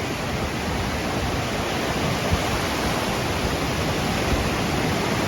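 Steady rush of the sea washing up the beach at high tide, an even, unbroken noise.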